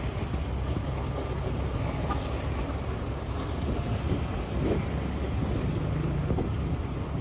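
Motorbike running along the road, its engine and tyre noise mixed with steady wind on the microphone.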